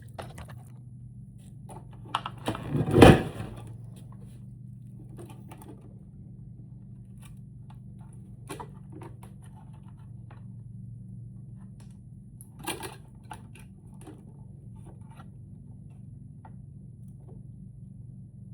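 Scattered clicks and knocks from handling hard objects, the loudest a thump about three seconds in and a shorter clatter about two-thirds through, over a steady low hum.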